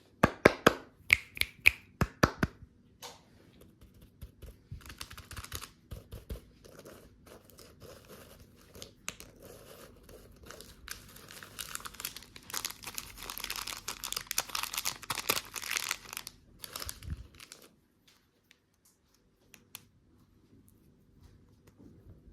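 Candy packaging being unwrapped: a quick run of sharp clicks and taps, then wrapper crinkling and tearing that grows dense and loud before stopping a few seconds from the end.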